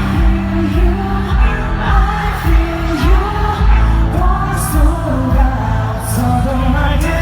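Live K-pop song played loud, a male voice singing over a heavy repeating bass beat.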